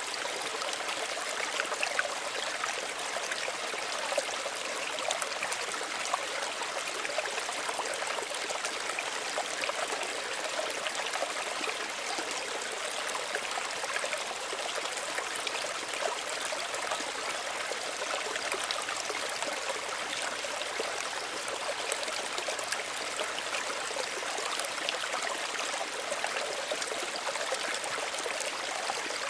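Small stream running and trickling: a steady, even babble of water with fine splashing, no deep rumble.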